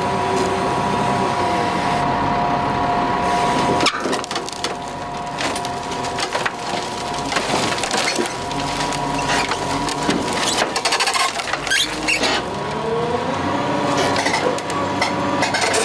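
A heavy log-handling machine's engine running, its pitch rising and falling, while wood cracks and splinters repeatedly. A sharp crack comes about four seconds in, and the cracking is densest from there to about twelve seconds.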